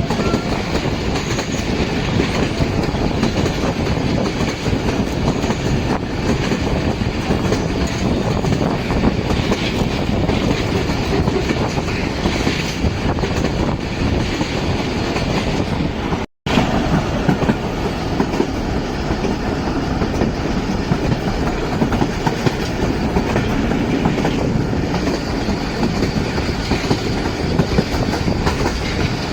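Passenger train running along the line: a steady rumble with rail clatter from the wheels. The sound drops out for a split second about halfway through.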